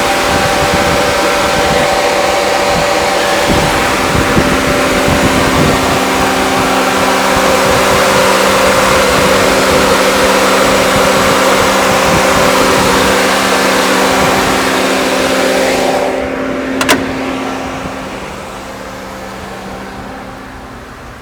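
The 2007 GMC Yukon's 5.3L Vortec V8 idling under the open hood: a steady engine hum under a loud airy rush. About three-quarters of the way through, the sound drops away and there is a single sharp click.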